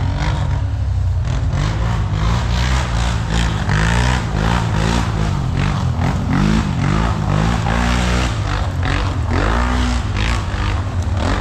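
Off-road vehicle engine running under way, its pitch rising and falling with the throttle, with rattles and scrapes from rough ground.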